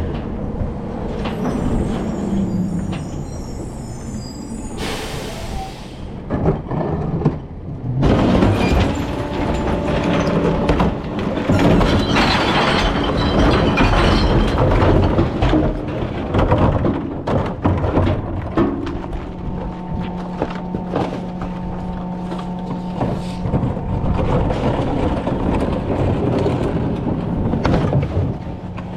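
Rear-loader recycling truck running, with a short hiss about five seconds in and a stretch of loud rattling and knocking in the middle. A steady engine drone follows near the end.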